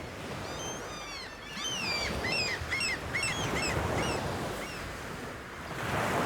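Birds calling repeatedly, a quick run of short, high, downward-curving calls, over a steady rush of wind and water.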